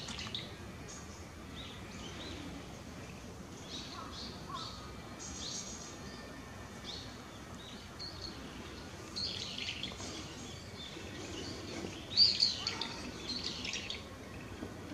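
Small birds chirping and calling on and off, short high calls scattered through a quiet outdoor background, with the loudest burst of calls about twelve seconds in.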